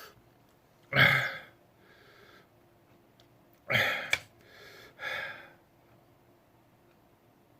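A man's sharp, breathy gasps and exhalations through the mouth, three loud ones with fainter breaths between: reacting to the burn of a superhot Chocolate Jigsaw pepper.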